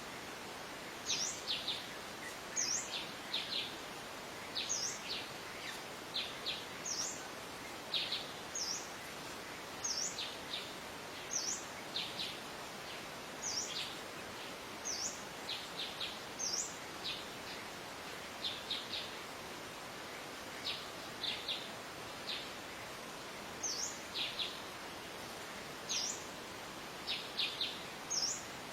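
Wild birds chirping: short high calls, often in quick groups of two or three, repeating every second or so over a steady background hiss.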